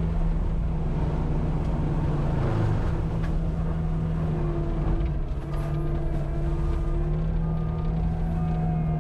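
Cat 259D compact track loader with a forestry mulcher working, its diesel engine running with a steady low drone and fainter higher tones that come and go in the middle.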